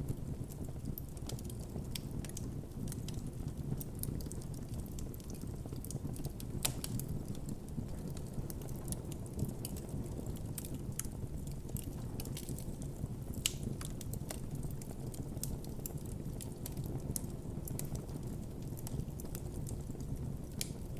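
Wood campfire burning with a steady low rush of flames and frequent irregular crackles and pops, a few louder snaps among them.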